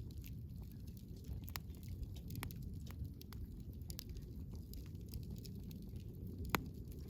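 Wood campfire crackling: a steady low rumble of flames with irregular sharp pops and snaps of burning wood, one louder pop near the end.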